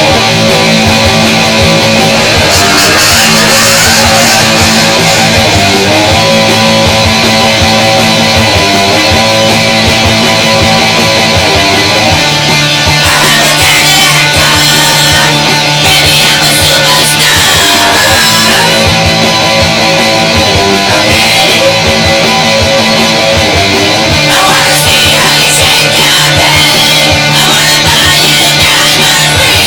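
Loud rock band music driven by electric guitar, playing steadily throughout.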